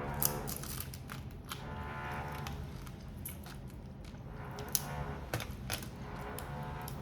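Eating grilled prawns and crab: sharp clicks and cracks of shell being broken and handled, over a steady low hum. Several drawn-out, voice-like tones of up to a second rise and fade in the background.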